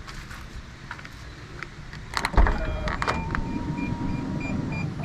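A heavy clunk, then a short electric motor whir that stops after under two seconds. A rapid, steady beeping starts near the end.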